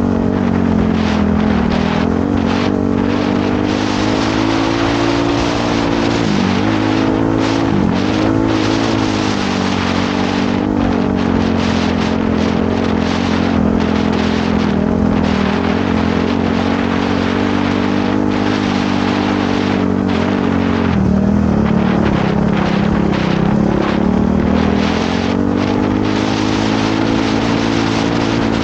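Trail motorcycle engine running steadily under throttle, with two brief dips in pitch about six and eight seconds in, then a drop in revs about two-thirds through before it climbs again.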